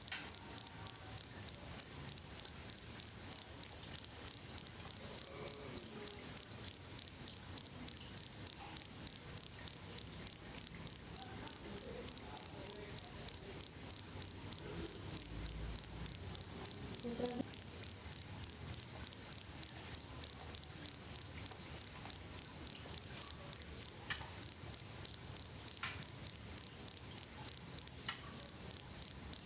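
Cricket chirping in a steady, high-pitched pulse train, about three to four chirps a second, without a break.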